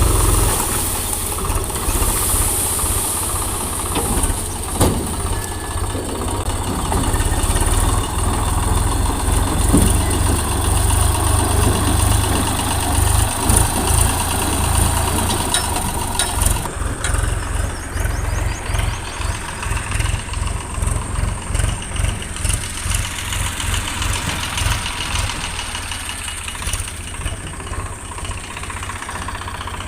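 Tractor's diesel engine running under load while hauling a trailer of soil. The sound changes about halfway through, then pulses unevenly and slowly gets quieter.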